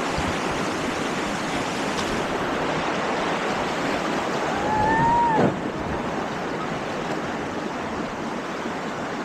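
River rapids rushing steadily. About five seconds in, a brief high call rises slightly and then slides sharply down in pitch.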